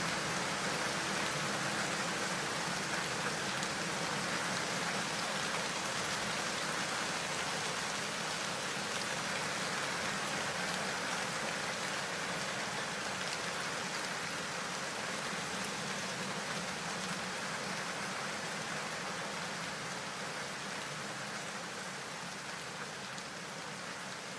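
Heavy rain falling, a dense, even hiss that slowly eases a little in loudness.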